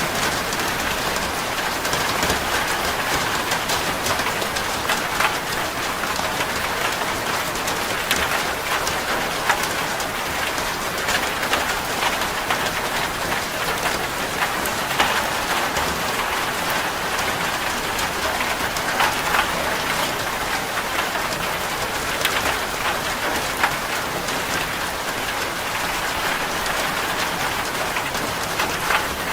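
Heavy rain falling on a corrugated zinc roof: a steady, dense hiss with many sharp, separate drop ticks scattered through it.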